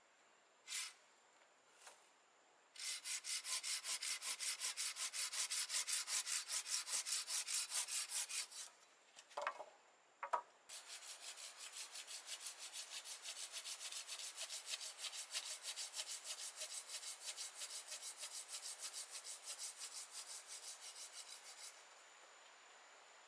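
Quick, even back-and-forth scraping strokes, about four a second, in two long bouts, the first louder, with a few short knocks in the pause between them.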